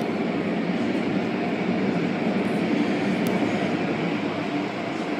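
Steady, even mechanical rumble and rush of car wash machinery running.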